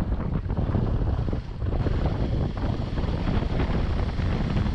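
Wind buffeting the microphone on a moving motorcycle, over the steady run of the bike and its road noise. A brief dip comes about a second and a half in.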